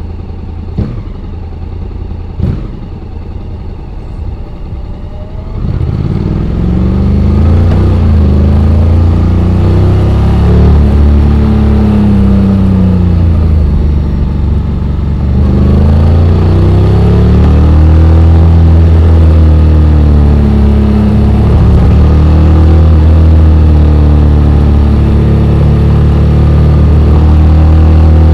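Honda X-ADV 750's parallel-twin engine running low and quiet with two sharp clicks, then opening up about five seconds in: the engine note rises and falls several times as the scooter accelerates, then settles into a steadier drone.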